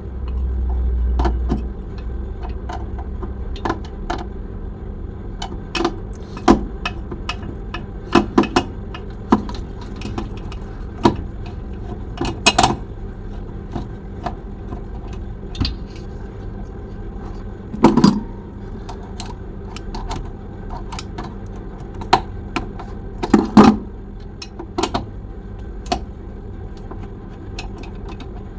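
Hand tools clinking and knocking on metal while the mounting screws of a refrigerator compressor are undone. The sharp metallic clicks come at irregular intervals, with a few louder knocks, over a steady low hum.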